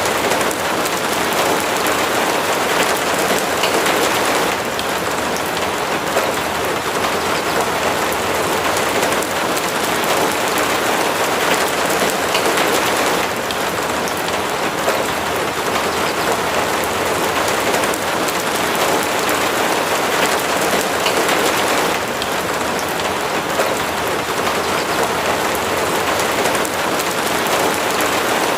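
Steady heavy rain pattering on a surface, with dense, even noise and slight swells in level every few seconds.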